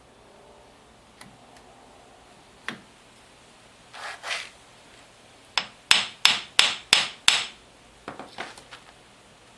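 Hammer tapping during a UTV front-axle install: a few scattered knocks and a brief scrape, then a run of six sharp strikes about three a second, followed by a few lighter taps.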